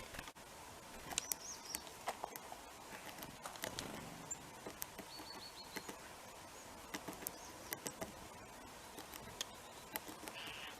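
Irregular sharp taps and clicks of small birds and squirrels feeding at a feeder, with a few brief high-pitched calls from small birds such as tits.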